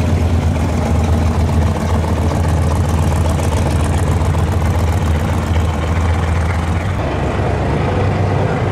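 Late-1960s Ford Ranchero's engine running at low speed as it rolls slowly past, a steady deep exhaust note that eases a little near the end as the car pulls away.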